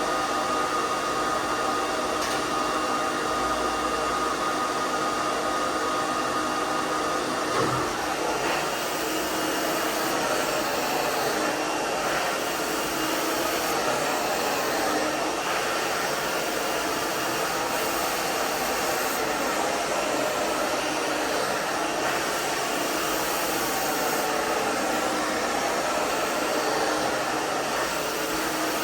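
Hair dryer running steadily, blowing air through long hair during drying and styling. A faint steady whine over the rush of air drops away about seven and a half seconds in, and the rushing continues.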